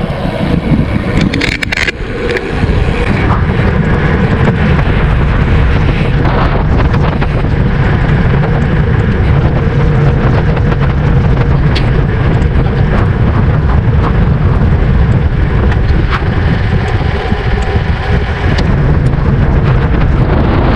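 Wind buffeting the microphone of a camera riding on a moving bicycle: a loud, steady rush with a few brief clicks and rattles scattered through it.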